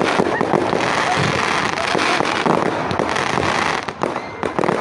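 Fireworks bursting and crackling in a dense, rapid barrage, thinning about four seconds in to a few separate bangs.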